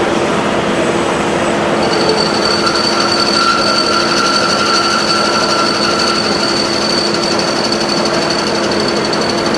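A milling machine running loud and steady. About two seconds in, a high whine with a fast chatter joins and carries on.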